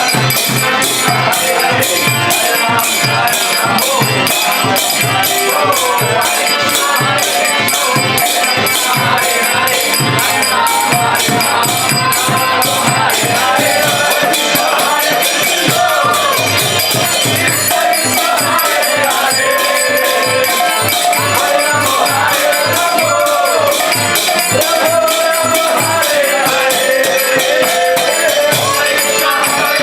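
Kirtan music: hand cymbals keep up a fast, even clatter over a regular drum beat, with a wavering melody line above.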